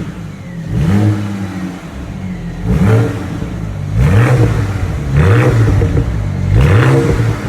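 BMW N54 twin-turbo inline-six being revved in about five short blips, its pitch rising and falling back each time.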